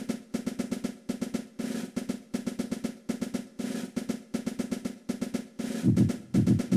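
Background music: a fast snare-drum rhythm with rolls over a steady low note, with heavier low drum hits near the end.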